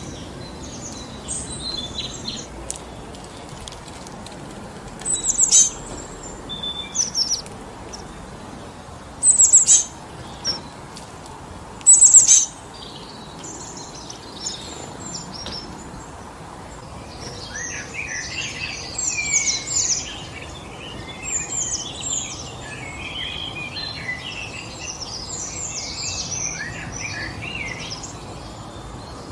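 Songbirds chirping and calling over a steady rush of wind through trees. Three louder, short high calls come about 5, 9 and 12 seconds in, and from about halfway through a busier chatter of overlapping chirps takes over.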